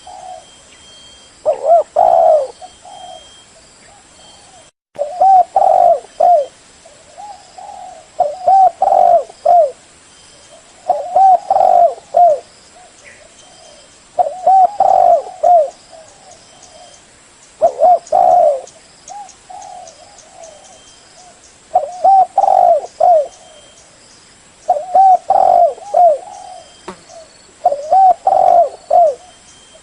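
Spotted dove cooing: a short phrase of a few low coos, repeated every three to four seconds, about nine times.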